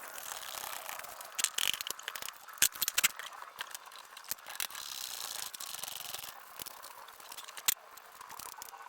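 Scattered sharp clicks, knocks and rattles over a steady hiss, from working around a tractor tyre to press its bead loose.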